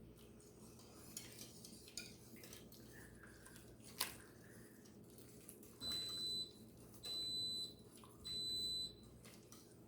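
Instant Pot electric pressure cooker beeping three times, a high steady tone about half a second long each, about a second apart, as its sauté setting on low starts up. A single sharp tap comes a couple of seconds before the beeps.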